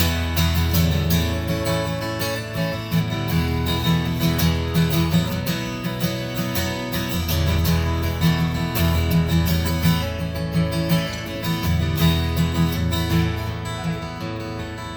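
Acoustic guitar strummed in an instrumental break of a live folk/country song, with a strong steady bass.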